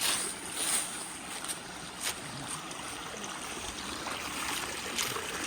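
Running water flowing steadily, like a stream, with a few brief sharp clicks or splashes on top.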